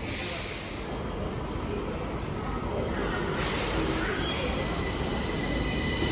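Stockholm Metro train running, with a low rumble and a steady high electric whine that drops away mid-way and comes back. Two short bursts of hiss, one at the start and one about three and a half seconds in.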